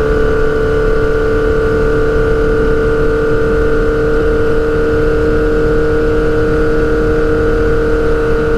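Straight-piped Suzuki GSX-R600 inline-four engine humming at a steady speed, its pitch holding constant.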